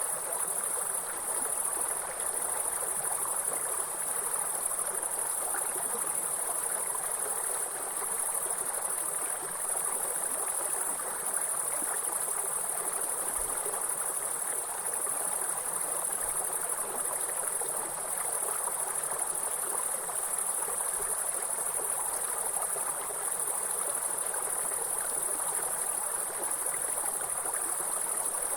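A steady, high-pitched chorus of insects trilling without pause, over the even rush of flowing stream water.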